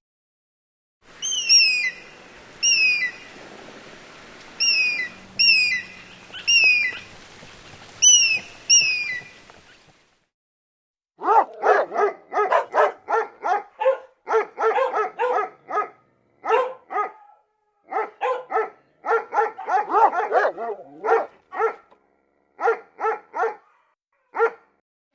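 Repeated short, high calls that slide downward, often in pairs, then a dog barking in quick runs of short barks from about eleven seconds in.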